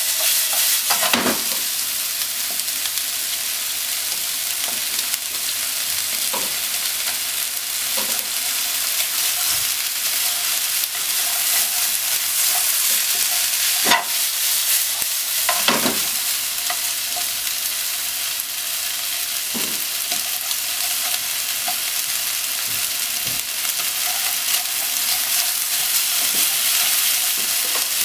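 Sliced pork and onion sizzling steadily in a hot nonstick frying pan over a gas flame, with a wooden spatula scraping and knocking against the pan every few seconds as the food is stirred and tossed.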